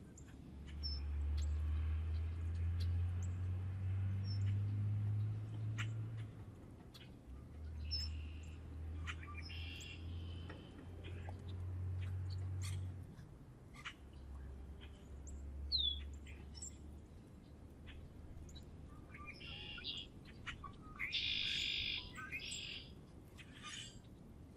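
Wild songbirds at a feeder chirping and calling in short scattered notes, with a busier run of chattering calls near the end. A low rumble comes and goes through the first half and is the loudest sound there.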